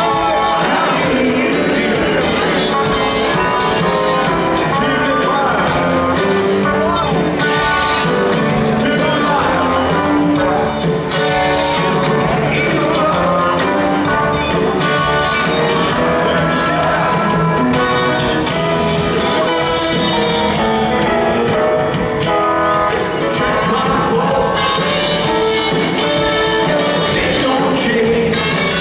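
Live rock band playing a song with sung lead vocals, with steady full-band music throughout.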